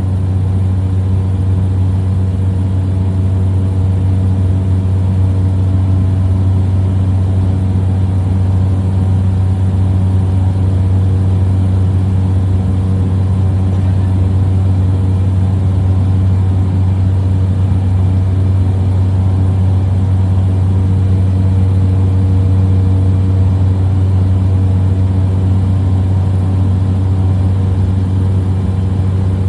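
Small plane's piston engine and propeller droning steadily in cruise, heard from inside the cabin as a loud, even low hum with steady tones above it.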